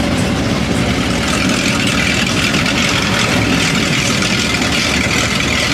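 A vehicle engine running steadily, with a continuous higher hiss that grows a little brighter about a second and a half in.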